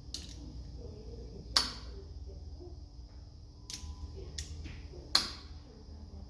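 Sharp metallic clinks and knocks at irregular intervals, as tools and brake parts are picked up and set down. Two of them, about a second and a half in and near the end, are much louder and ring briefly. A steady low hum runs underneath.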